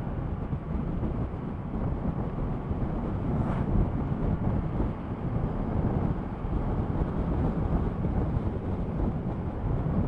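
Wind rushing and buffeting over the camera microphone on a moving motorcycle, a steady low rumble that rises and falls, with the bike's running blended underneath.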